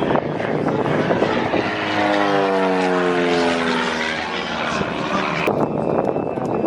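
Propeller-driven airplane engine flying past, its pitch falling steadily as it goes by. The sound changes abruptly about five and a half seconds in.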